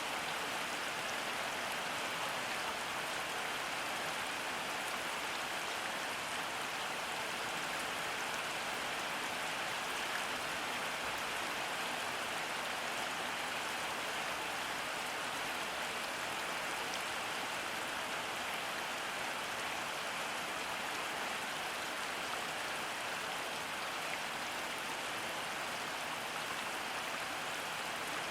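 Steady rainfall: an even hiss of rain with faint individual drops ticking through it.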